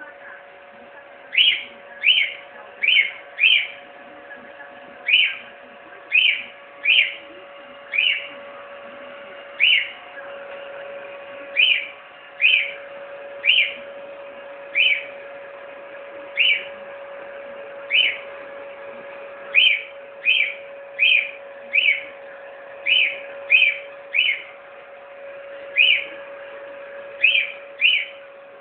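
A cockatiel giving short, sharp chirps over and over, roughly one a second in loose runs, over the steady hum of a hair dryer running.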